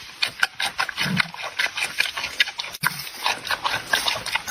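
Giant panda chewing bamboo: rapid crisp cracking and crunching, with a few deeper chomps.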